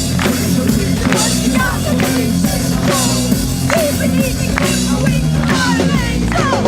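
Live rock band played loud over a PA: a heavy drum-kit beat about twice a second over bass and guitar, with a voice over it.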